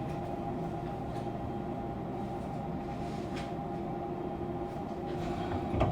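Fukuoka City Subway 2000 series car standing still, heard through the car floor: a steady hum of onboard equipment with a few constant tones and a few faint clicks. The low end swells near the end.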